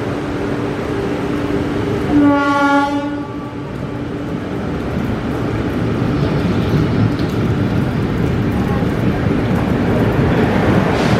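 An Indian Railways locomotive horn sounds once for about a second, then a train runs through the station with a rumble that grows louder.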